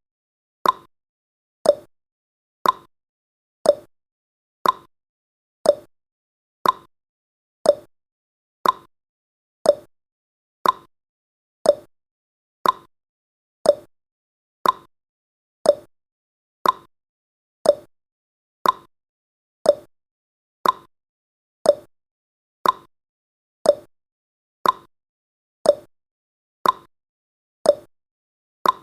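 Clock tick-tock sound effect marking the seconds of a countdown: one sharp tick each second, alternating between a higher and a lower pitch.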